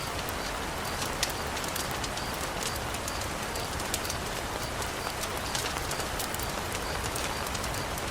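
Steady rain falling, with scattered sharp ticks and pops through it and a faint high chirp repeating about every half second.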